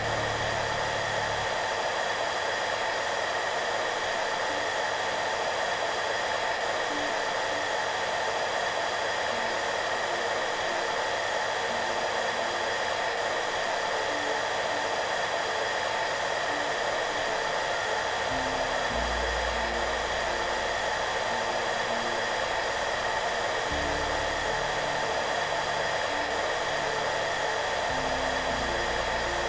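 Hair dryer running steadily, a constant airy rush with a fixed whine. Soft, low background music notes change slowly underneath it.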